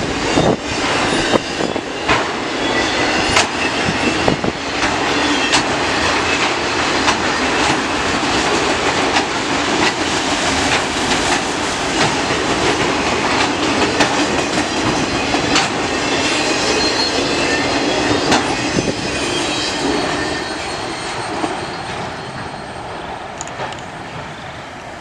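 Freight cars of a CN mixed freight train rolling past, a steady rumble of steel wheels on rail with irregular clacks. The sound dies away over the last few seconds.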